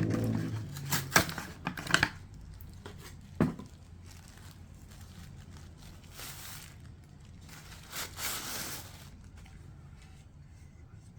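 Packaging being handled: several sharp clicks and knocks in the first couple of seconds and another near three and a half seconds, then two longer crinkling, tearing rustles, one around six seconds in and one around eight seconds in.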